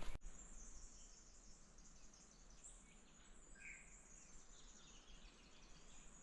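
Faint bush ambience: a thin, steady high insect buzz, with a single short bird chirp about three and a half seconds in.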